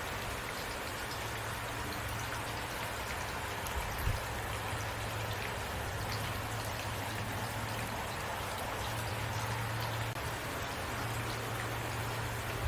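Steady rain falling on a surface, with many separate drops ticking through a constant hiss. A low hum comes and goes underneath, and there is one louder knock about four seconds in.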